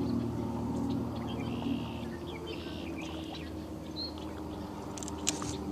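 Birds chirping in short high calls over a steady low hum that fades away about two seconds in, with a few light clicks near the end.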